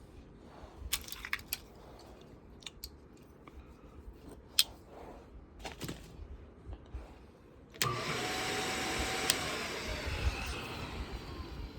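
Scattered clicks and knocks of parts being handled, then, about eight seconds in, a small electric motor, likely the drill bit sharpener's, switches on suddenly. It runs steadily for about two seconds, then gradually fades.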